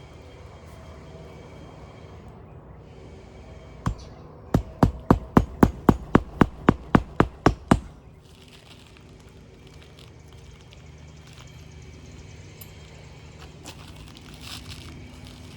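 Hammer striking a roofing nail in a rapid run of about fifteen sharp blows, roughly four a second, starting about four seconds in and stopping after about four seconds. The nail is being driven flush beneath a lifted asphalt shingle so the fastener lies flat.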